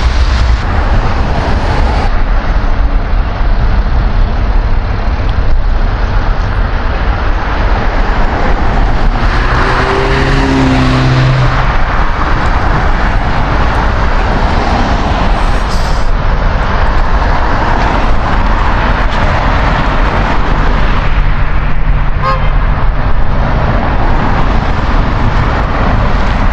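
Steady noise of heavy highway traffic, tyres and engines running together. One vehicle's engine tone stands out as it passes, about ten seconds in.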